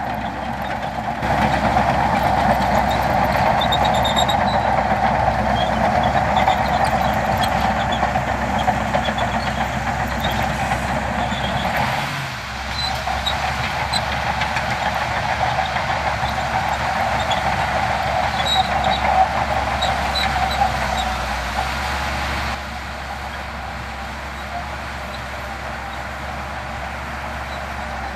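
Heavy diesel earthmoving machinery running under load, a steady engine noise that grows louder about a second in, dips briefly near the middle and drops to a lower level about three-quarters of the way through, with faint high squeaks now and then.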